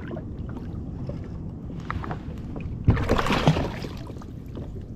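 Steady wind and water noise around a fishing kayak, with a louder rush of splashy noise and a couple of sharp knocks about three seconds in.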